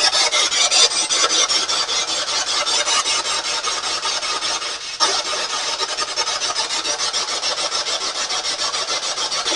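Spirit box sweeping rapidly through radio stations: choppy radio static chopped up several times a second, with a short dip about halfway through before the sweep carries on.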